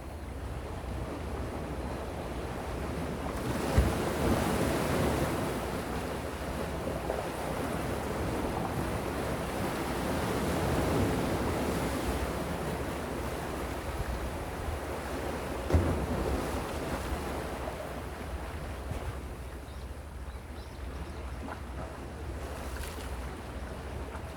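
Calm sea waves washing in and drawing back, the surge swelling and easing over several seconds, over a steady low rumble of wind on the microphone. Two short thumps stand out, about four seconds in and again around sixteen seconds in.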